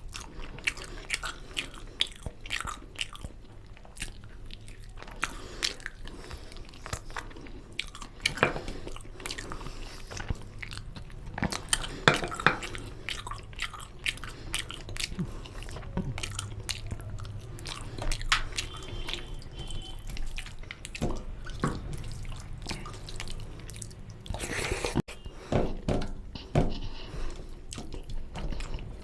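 Close-up eating sounds: a person chewing and biting mutton nalli curry with rice, with irregular wet clicks and smacks of the mouth.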